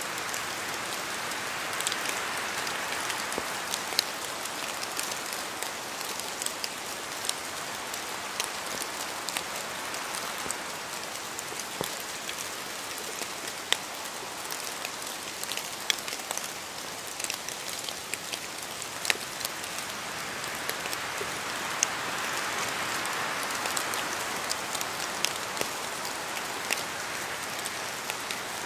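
Steady rainfall hissing on a surface, with many sharp individual drop ticks scattered through it; the rain swells a little near the start and again past the middle.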